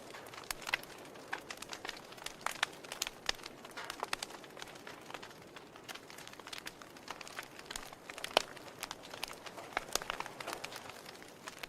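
Wood fire burning in a fireplace, the logs crackling: irregular sharp pops and snaps over a soft hiss, with one louder pop about eight seconds in.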